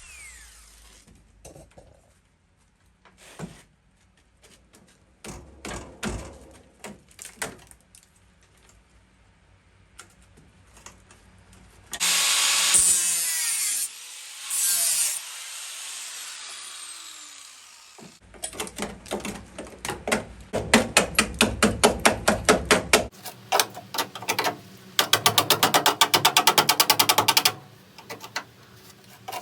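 Power tools working the car's body steel: scattered knocks, then a loud tool runs in two bursts and winds down with a falling pitch, followed by rapid repeated strokes of a tool.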